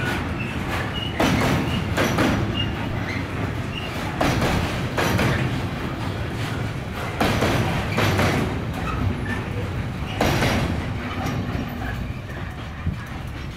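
Container flat wagons of a freight train rolling past close by, their wheels clattering over the rail joints in repeated clacks over a steady rumble. The sound falls away near the end as the last wagon goes by.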